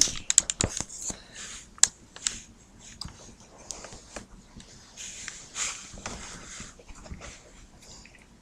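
A dog scrabbling and nosing at a bed frame, trying to reach cheese held underneath. A run of sharp clicks and knocks in the first two seconds, then softer, intermittent scuffling.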